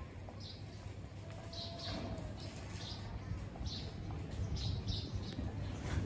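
Scattered short bird chirps, about ten of them at uneven intervals, over a low steady rumble.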